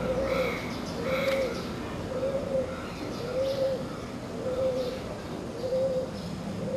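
A bird calling: a short, low arched note repeated about once a second, with fainter higher chirps over it.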